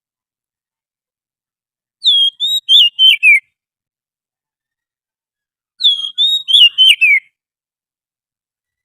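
Oriental magpie-robin song: two short whistled phrases, each about a second and a half long and ending in a falling slur, a few seconds apart, on a clean background.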